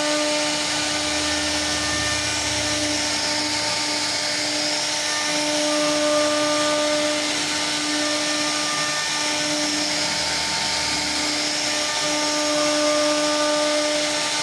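CNC router spindle running with a steady high-pitched whine over a rushing hiss, cutting wood; a low rumble comes in about a second in and fades out around eleven seconds in.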